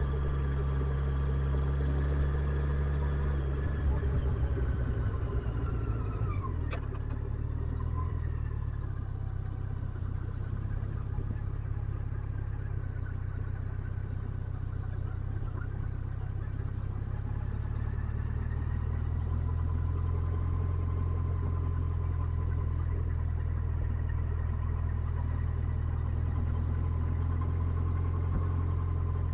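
Motorcycle engine running on the road, its pitch falling as it slows about four to seven seconds in, then holding steady at a lower, even note.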